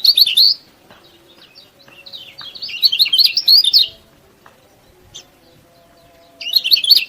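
Kecial kuning (a white-eye) giving rapid, high twittering chirps in three bursts: one right at the start, a longer one from about two to four seconds in, and another starting near the end.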